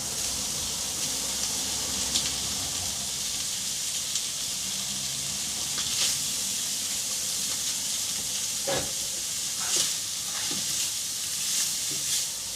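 Chicken pieces frying with onions in butter in a pan on turned-down heat, a steady sizzle, with a few short knocks as the pan is stirred.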